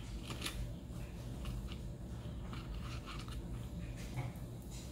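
Close-up chewing of fries, with small irregular mouth clicks and light taps of a fork in a plastic takeout tray, over a steady low hum.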